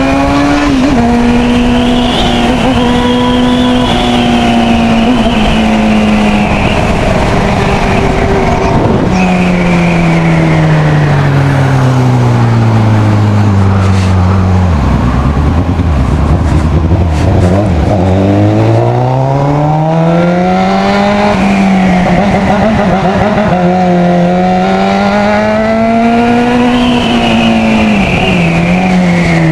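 A four-cylinder motorcycle engine heard while riding. It holds high revs, then the pitch falls steadily until it nears idle about halfway through. It climbs again as the bike accelerates, holds for a while, and drops again near the end.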